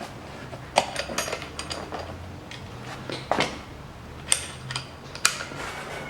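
Metal hand tools clinking and knocking, a wrench and socket worked against a seized alternator overrunning-clutch pulley that is stuck fast: a few separate sharp clicks spread over several seconds.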